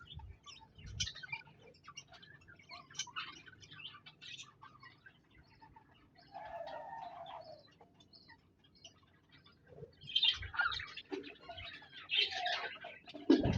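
Budgerigars chirping and warbling: scattered short high chirps, a longer lower call about halfway through, and denser, louder chattering near the end.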